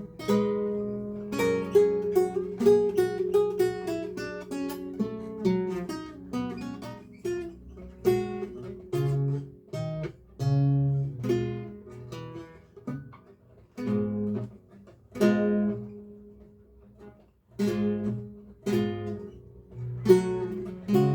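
A solo lute playing a recercar. A flowing run of single plucked notes over ringing bass notes gives way, about six seconds in, to separate plucked chords with short gaps between phrases.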